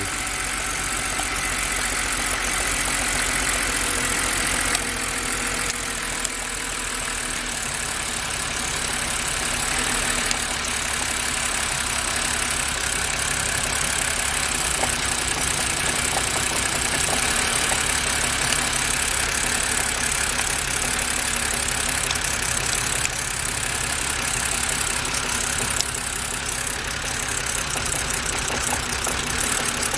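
2006 BMW E90's six-cylinder engine idling roughly, misfiring on a failing ignition coil that the owner traces to cylinder 2. The low rumble grows stronger about ten seconds in.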